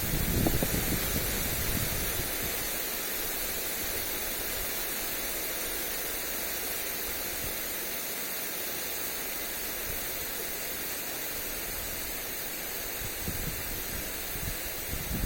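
Lawn sprinkler spraying water onto grass, a steady hiss. Wind gusts rumble on the microphone in the first couple of seconds and again near the end.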